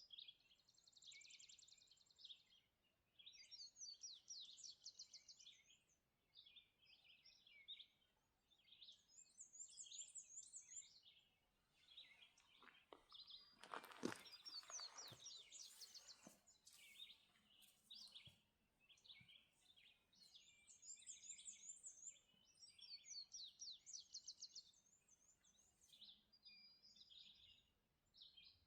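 Faint dawn chorus of several songbirds singing at once: overlapping short phrases, fast trills and repeated high notes. About halfway through, a brief cluster of sharp knocks or clicks is the loudest thing heard.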